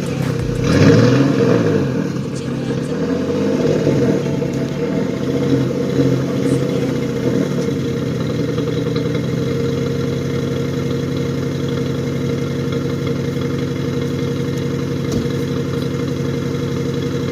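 Dodge Magnum V6 engine running through dual Challenger exhaust with the mid muffler deleted and resonators still fitted, blipped a few times with the pitch rising and falling, then settling into a steady idle about eight seconds in.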